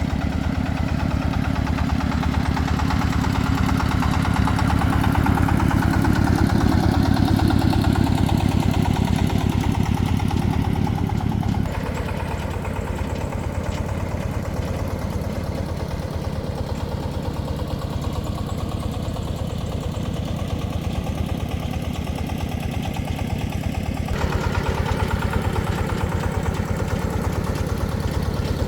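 An engine idling steadily with a rapid, even pulse. The sound changes abruptly about twelve seconds in and again about twenty-four seconds in.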